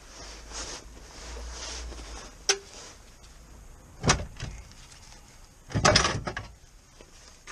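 A few sharp knocks and clanks: one about two and a half seconds in that rings briefly, another near the middle, and a quick cluster of clatter toward the end.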